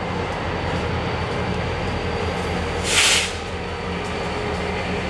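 Diesel-hauled track geometry inspection train passing, its locomotives running with a steady low rumble. A short burst of hiss comes about three seconds in.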